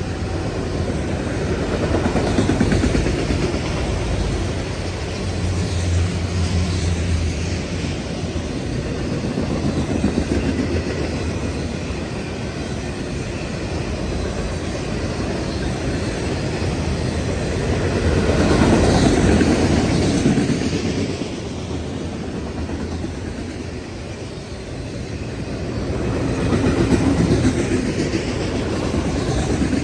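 Autorack cars of a freight train rolling past: a continuous rumble and clatter of steel wheels on the rails, swelling and easing in loudness several times.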